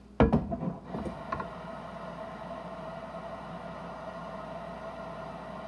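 A water tap runs steadily into a watering can, with a faint steady whine from the plumbing under the rush of the water. A few knocks come just before the water starts.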